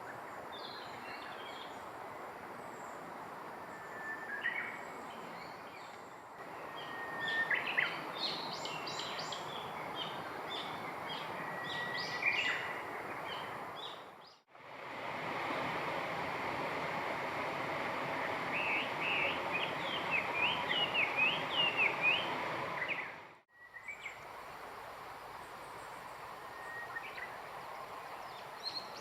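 Small wild birds singing and chirping over a steady rushing background noise. There are short phrases about 4 and 7 to 9 seconds in, and a run of quick chirps from about 18 to 22 seconds. The sound breaks off sharply three times where the recording is cut.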